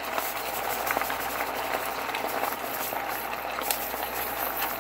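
Sliced potatoes and onions frying in oil in a cast iron skillet: a steady sizzle with small scattered crackles.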